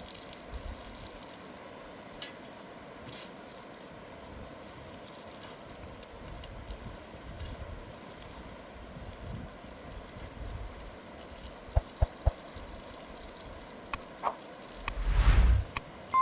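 Steady rushing of a river, with a few sharp knocks late on and a louder thud near the end.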